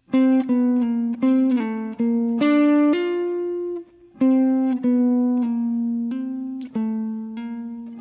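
Guitar playing a jazz lick slowly as single notes, a few of them slurred smoothly into the next: one short phrase, a brief pause about four seconds in, then a second phrase.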